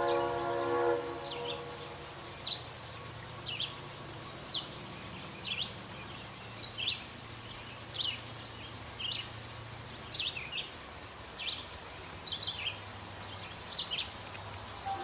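A bird chirping over and over, short high notes about once a second, over a faint low rumble. A multi-chime locomotive horn fades out in the first second.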